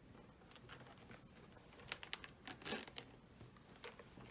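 Faint scattered clicks and rustles of packaging being handled as the contents of a small suitcase are taken out, a few light taps about two seconds in and near the end.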